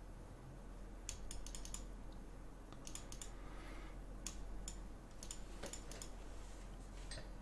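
Quick, irregular computer clicks in small clusters, from fast play in an online bullet chess game.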